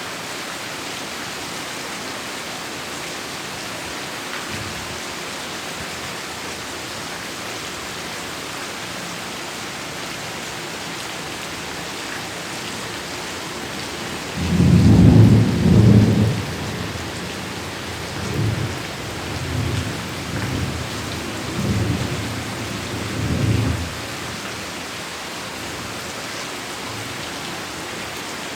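Steady heavy rain, with a loud peal of thunder about halfway through that rolls on in several weaker rumbles for about eight more seconds before the rain alone continues.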